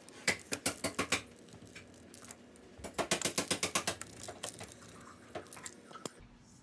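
Pizza-cutter wheel rolling through a thin-crust pizza on a parchment-lined baking sheet, making rapid crunching clicks. There are two quick runs of clicks, the second about three seconds in, with a few lone clicks after.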